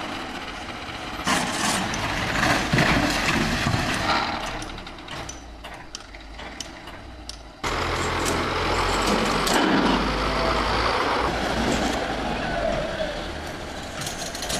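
Diesel heavy earth-moving machinery running, with rattling and clanking over the engine. About halfway through, the sound cuts abruptly to a louder, steady low engine drone.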